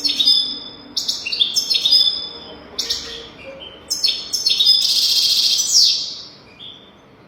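European goldfinch singing: quick bright twittering phrases about a second apart, then a longer harsh, buzzy trill near the end.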